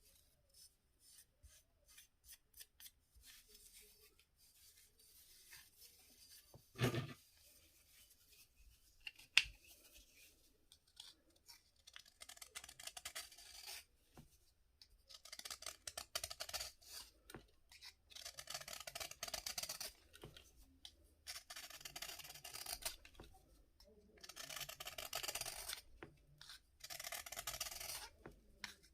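Bath fizzer being cut and scraped: scattered small crumbly crackles at first and a single thump about seven seconds in, then from about halfway a run of gritty scraping strokes, each a second or two long, about one every two seconds.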